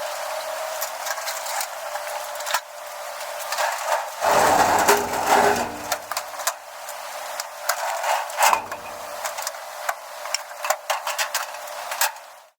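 Irregular knocks, clunks and clatter of stored items being handled, moved and set down, with a heavier run of bumps about four seconds in and another near nine seconds. The sound cuts off suddenly just before the end.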